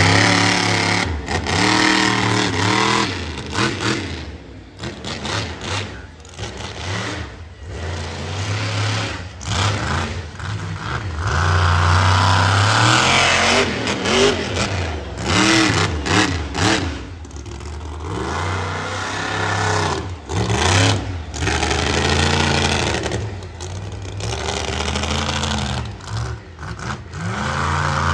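Monster truck engine revving hard and dropping back again and again through a trick run, the pitch sweeping up and down many times, with brief sharp cuts and knocks in between.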